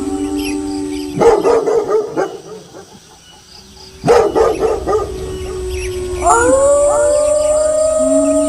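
Wolves howling in long, held, overlapping howls, broken by a burst of rapid barking about a second in and another about four seconds in. Near the end several howls rise in together as a chorus.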